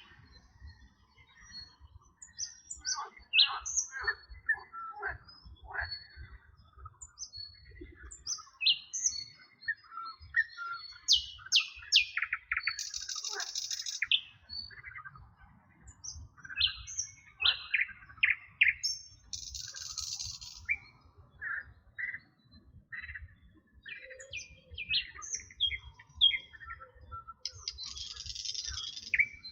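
Several birds singing in a chorus of short chirps and whistled notes, overlapping. A buzzy high trill comes back every seven seconds or so, near the middle, about two-thirds in and near the end.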